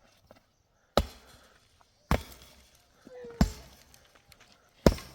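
Four sharp knocks from a hand tool striking hard building material, a little over a second apart.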